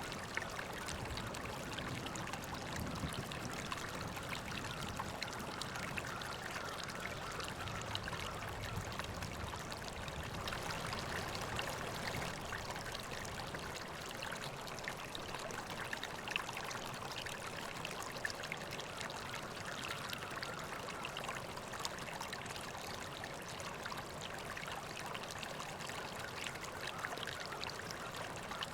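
River water flowing steadily, with a continuous rush and small splashes and trickles.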